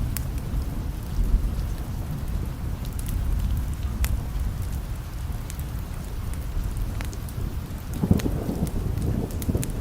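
Steady rain with low, rumbling thunder, and scattered sharp ticks of drops throughout. A louder roll of thunder builds about eight seconds in.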